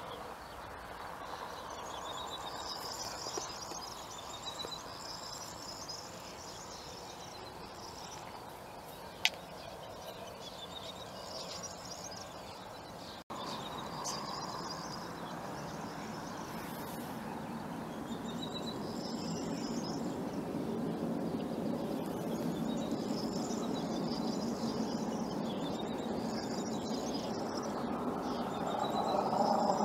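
Songbirds singing short, repeated phrases over a steady outdoor background hiss, with one sharp click about nine seconds in. A low rumbling background noise swells over the second half.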